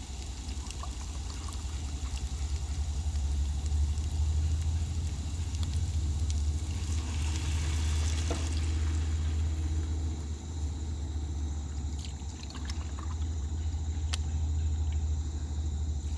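Water being poured into a hot pan of sautéed onions for gravy, with a hiss that swells about seven seconds in and dies away a couple of seconds later, over a steady low rumble.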